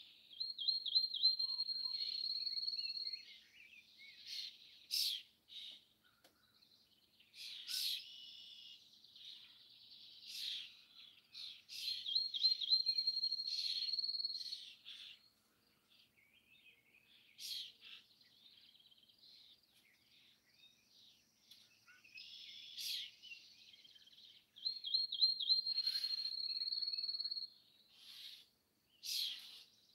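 Songbirds singing. One bird repeats a song of a few quick notes running into a long, steady trill, three times about twelve seconds apart, while other birds give short sharp chirps in between.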